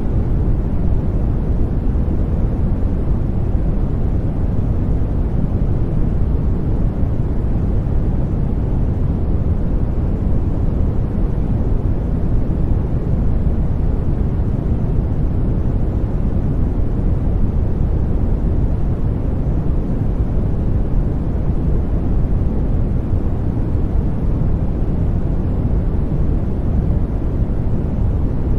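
Steady sleep-aid noise, deep and rumbling rather than hissy, holding level and never changing.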